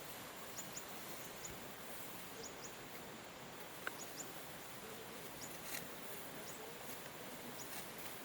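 Faint outdoor field ambience: a steady hiss with short, high chirps about once a second and a couple of sharp clicks.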